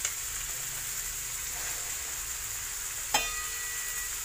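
Chicken breast pieces with onions and chili sizzling steadily as they fry in a pan, cooked dry without added water. About three seconds in comes a single metallic clink that rings briefly.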